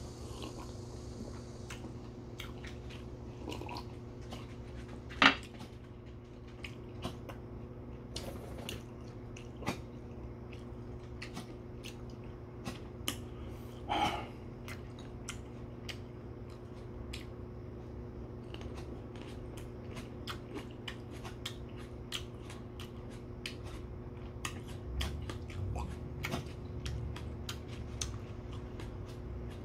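Eating sounds: chewing with many small clicks and taps, and a sharp knock about five seconds in. Under them runs the steady hum of an electric fan.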